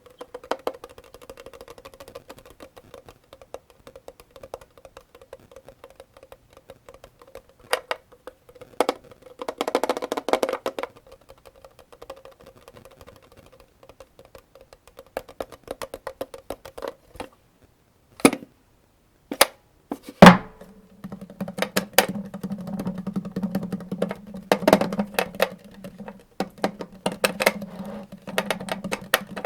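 Cartridges being pressed one by one into an AK-47 75-round drum magazine: a run of sharp metallic clicks. About two-thirds through there is a near-silent pause with a few single clicks, then one loud click, after which a low steady hum lies under the clicking.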